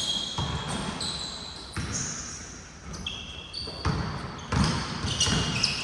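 Basketball game play on an indoor court: a ball bouncing with irregular deep thumps, and sneakers squeaking in short high chirps, with a quieter stretch in the middle.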